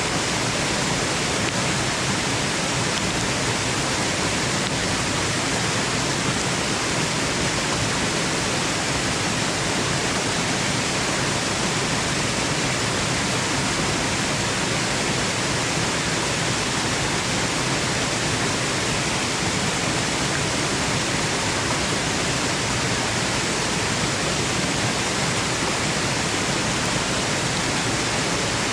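Waterfall noise, a steady even rush of falling water with no changes.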